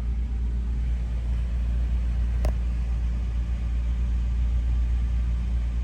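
1994 Toyota Land Cruiser FZJ80's 4.5-litre straight-six idling steadily, still warming up after a cold start, heard from inside the cabin. A single click about two and a half seconds in.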